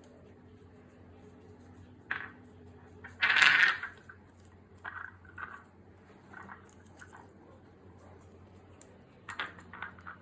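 Pet bird moving about in its cage: scattered light clicks and scratches, with one louder, noisy sound lasting under a second about three seconds in, over a steady low hum.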